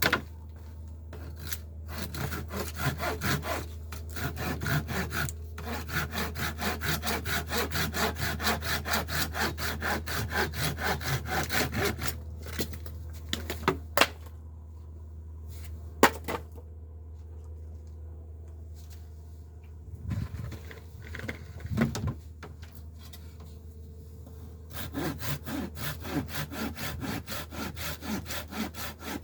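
Hand saw cutting scrap wood in quick, even back-and-forth strokes. The sawing stops in the middle for a stretch with a few sharp knocks and thumps of the wood being handled, then starts again near the end.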